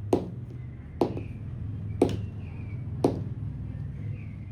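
Four sharp clicks about a second apart, over a low steady hum.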